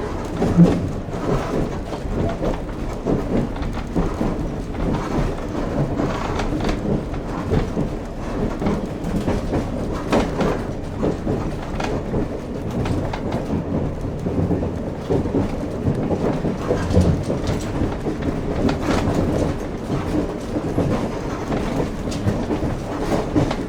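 Steady low rumbling ambience with irregular knocks and clatter running through it.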